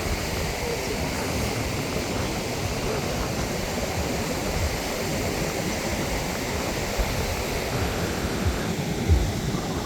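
Strong wind buffeting the microphone, a steady rumbling rush over the wash of surf, with a sharper gust thump a little after nine seconds.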